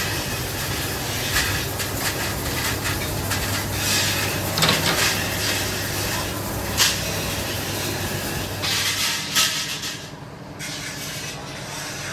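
Workshop machinery running with a steady low hum, scattered metallic clanks and knocks, and bursts of hiss. The hum drops away about nine seconds in.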